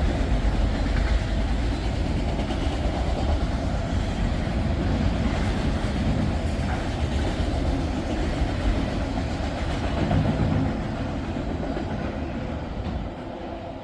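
Freight train cars rolling past at close range, a steady rumble with wheels clacking on the rail joints. The sound begins to fade late on as the end of the train goes by.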